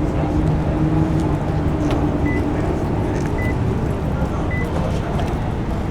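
Car engines idling, a steady low rumble with a pitched hum in the first couple of seconds; three short high beeps sound about a second apart midway through.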